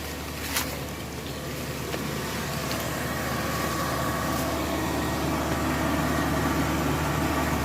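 An engine running steadily, slowly growing louder, with a few light clicks near the start.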